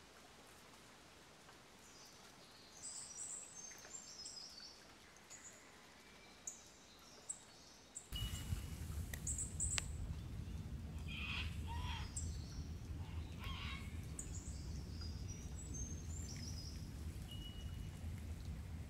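Small birds chirping and calling now and then against a quiet outdoor background. About eight seconds in, a steady low rumble starts suddenly and continues under the bird calls.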